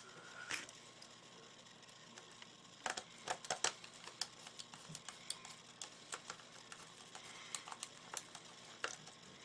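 Faint, irregular small clicks and ticks of a long screw being driven into the plastic grip of an airsoft revolver, with the screwdriver and plastic parts being handled; a small cluster of clicks comes about three seconds in.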